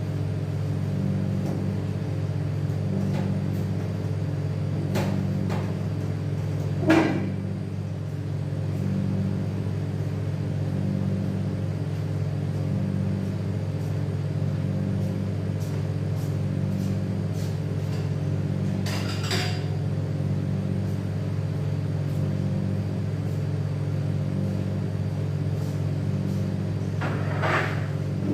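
Steady low machine hum with a slow regular pulse, with a few short clicks and knocks over it, one sharper knock about seven seconds in.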